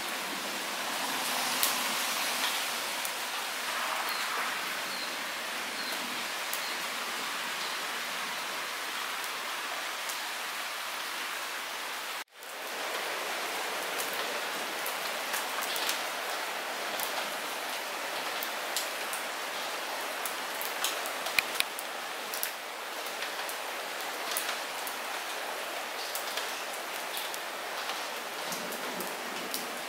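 Light rain falling steadily, an even hiss dotted with sharp individual drop ticks that grow more frequent in the second half. The sound cuts out for an instant about twelve seconds in.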